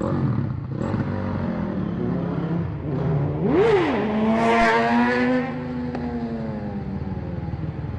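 Motorcycle engine revving: a quick blip up and back down about three and a half seconds in, then held at steady high revs. It is loudest for about a second and a half, then eases off.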